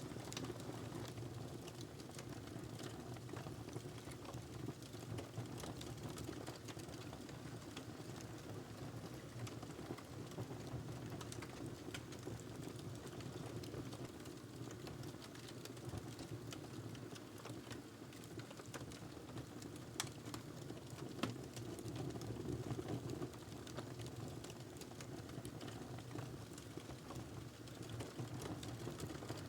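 Log fire burning in a fireplace: a steady low rumble of flames with frequent small crackles, and a couple of sharper pops about two-thirds of the way through.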